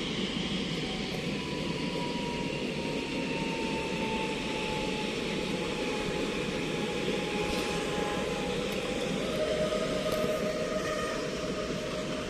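Steady running rumble and rail noise of a passenger train, with a faint whine that slowly falls in pitch.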